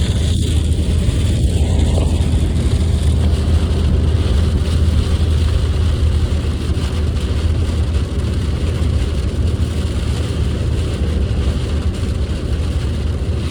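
Steady rumble of a car driving on a wet road, heard inside the cabin: engine and road noise with the hiss of tyres on wet tarmac and light rain on the car.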